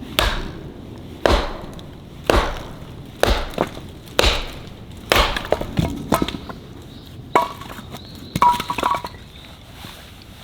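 Wood being chopped: about nine sharp blows, roughly one a second, some followed by a brief crackle of splintering.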